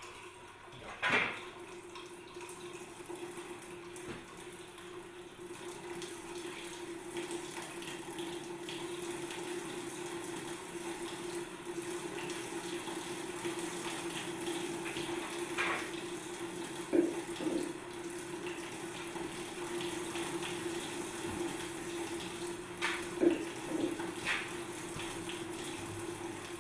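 Water running steadily through a working model of Escher's Waterfall, over a steady hum, with a few brief clicks now and then.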